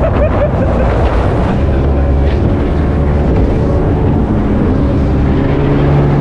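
Powerboat engines running at speed: a loud, steady low rumble.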